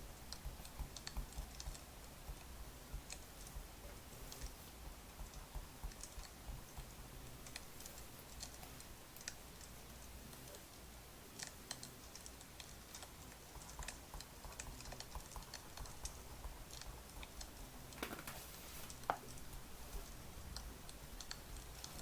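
Firewood burning, with irregular small crackles and pops over a low rumble, and one louder pop near the end.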